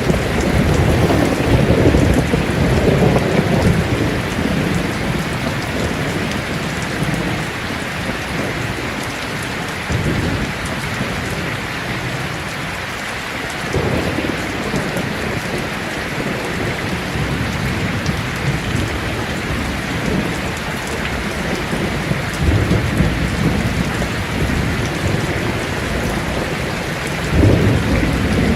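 Heavy rain drumming steadily on a tin roof, with rolls of thunder rumbling in several times, the sharpest clap near the end.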